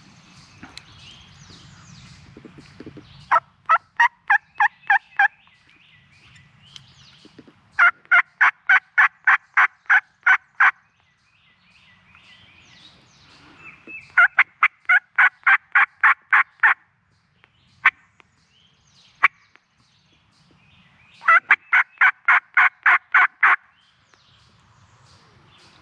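Hen turkey yelps from a hunter's turkey call, given in four loud series of evenly spaced notes at about four a second, each series two to three seconds long. Fainter turkey gobbles answer between the series, and two single sharp clicks come just past the middle.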